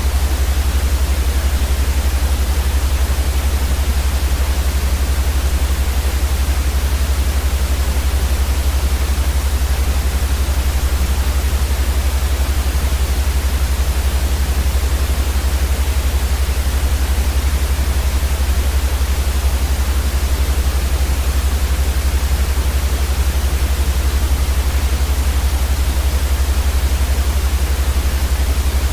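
Steady, unchanging white noise: an even hiss from top to bottom, with a heavy low rumble underneath that is the loudest part.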